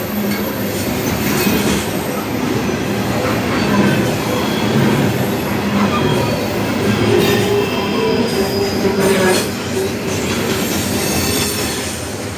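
Loaded coal hopper cars of a long freight train passing at speed: a continuous loud rumble of steel wheels on rail, with thin squealing wheel tones coming and going.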